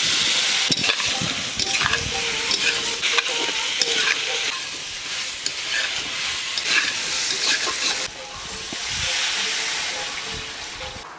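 Potatoes frying in a kadai, sizzling steadily, while a spatula stirs them and scrapes and knocks against the pan at irregular moments. The sizzle drops about eight seconds in, then swells again.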